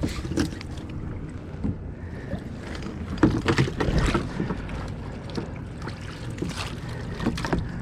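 Irregular knocks, clatters and water splashing as gear is handled on a kayak, over a steady low rumble of wind on the microphone.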